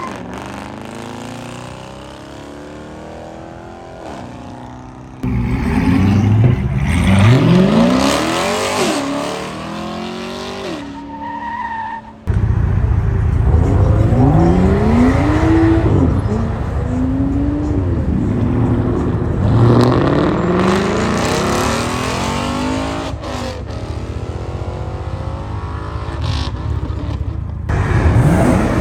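Car engines revving hard and accelerating, the engine pitch climbing and dropping again and again. The sound changes abruptly about five and twelve seconds in, as between separate clips.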